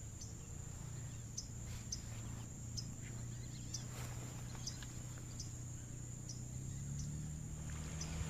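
A steady high-pitched insect trill, with short high falling chirps repeated about every second and a low hum underneath that rises slightly near the end.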